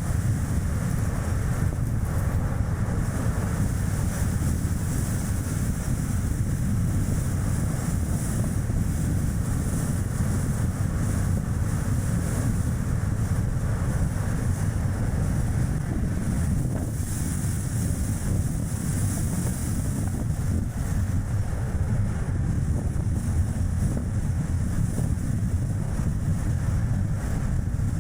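Strong wind rushing over an action camera's microphone while a Chevrolet Spark light car drives, a steady low rumble with road noise underneath.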